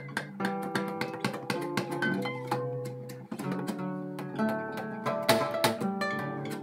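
Acoustic guitar playing an instrumental piece: quick plucked notes and chords ringing on, with one harder strum about five seconds in.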